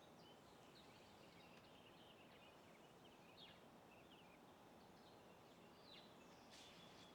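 Faint, high chirps and short calls of small birds, many scattered through and a louder cluster near the end, over a quiet steady background hiss.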